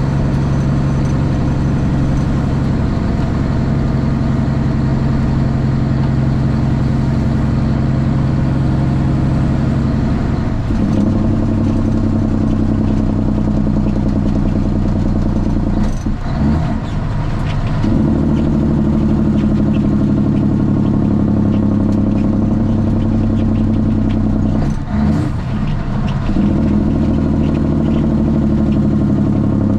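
Straight-piped Cummins ISX inline-six diesel of a Kenworth T800 running under way, heard from inside the cab. The engine note changes about eleven seconds in and drops out briefly twice, like gear shifts, before pulling steadily again.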